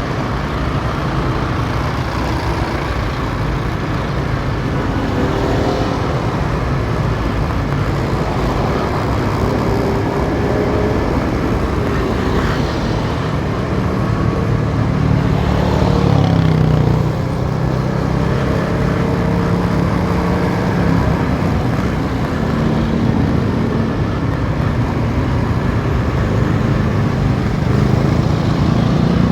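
Motorcycle on the move in city traffic: its engine runs steadily under a continuous rush of road noise, with the engine pitch rising and falling a few times as speed changes.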